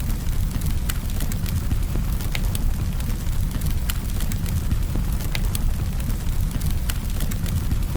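Campfire burning steadily: a low, even roar of the flames with frequent small, irregular crackles and pops of burning wood.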